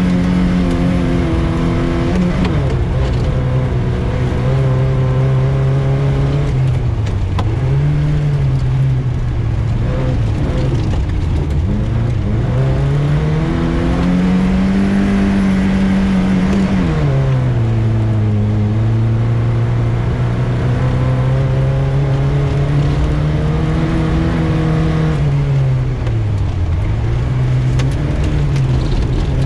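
VAZ 2105 (Lada) rally car's inline-four engine running hard on a winter rally stage, its pitch repeatedly climbing under throttle and falling away sharply, with a sharp drop about two-thirds of the way through, over a steady low road rumble.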